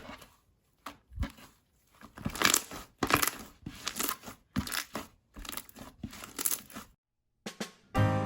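Slime being squeezed, stretched and pulled apart by hand, giving a run of short, irregular crackly bursts that stop about seven seconds in.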